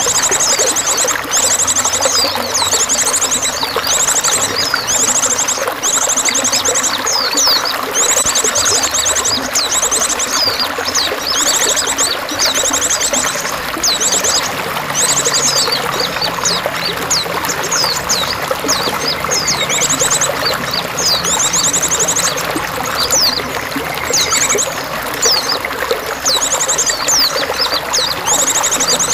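Steady trickling, pouring water with songbirds calling over it: bursts of very fast, high trills and quick downward-sweeping notes that come again every second or two.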